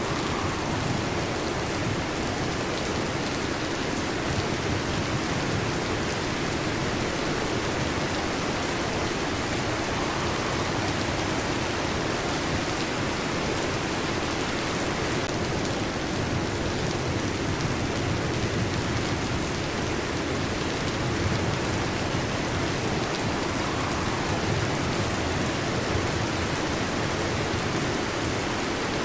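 Heavy rain drumming on a metal roof in a steady, dense patter, with low rumbles of thunder swelling up now and then.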